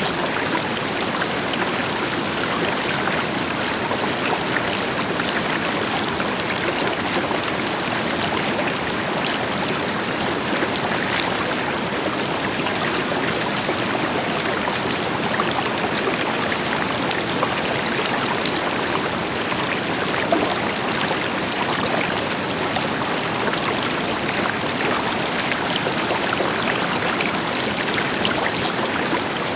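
River water flowing and splashing over rocks, a steady dense rush with fine bubbling detail, with a distant waterfall adding a deeper steady roar beneath it.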